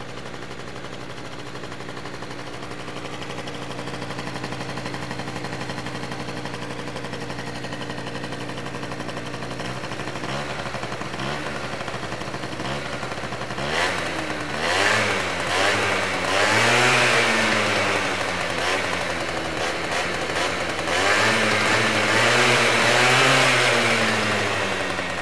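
Generic XOR 50 scooter engine breathing through a Leovince ZX aftermarket sport exhaust. It idles steadily at first, is blipped four times from about ten seconds in, and is then revved up and down in two longer runs that are the loudest part.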